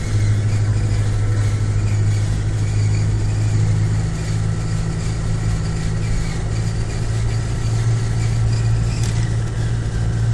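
Land Rover engine running with a steady low drone.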